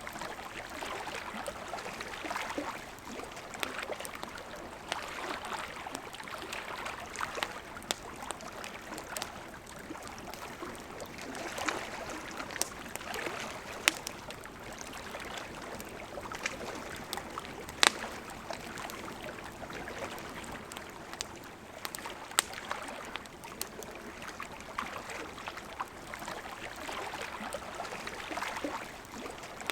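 Wood campfire crackling with frequent sharp pops, a few of them louder near the middle, over the steady rush of a flowing river.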